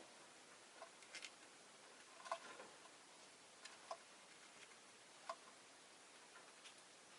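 Faint, irregularly spaced clicks and taps from peach-faced lovebirds moving about in their cage, over near-silent room tone; the loudest comes a little past two seconds in.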